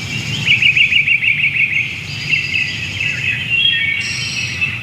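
Birds chirping and calling, with a fast run of repeated chirps about half a second in, over a steady low rumble.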